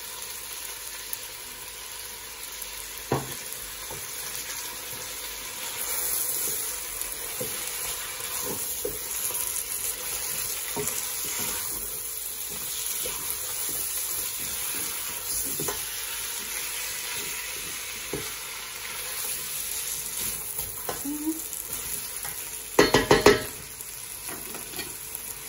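Lamb pieces frying in oil in a stainless steel pot, with a steady sizzle that grows louder about six seconds in, while a spatula stirs and scrapes them around the pot. Near the end, a quick run of loud knocks.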